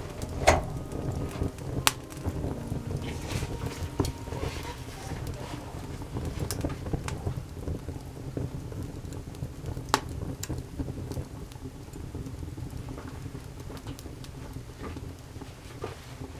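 Wood campfire crackling, with sharp pops scattered through it, the loudest about half a second in and others near two, four and ten seconds, over a low rumble.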